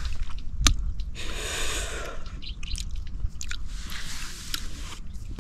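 Close-up mouth sounds of someone eating: wet chewing with sharp clicks and smacks, and two longer hissing sounds about a second in and near the end.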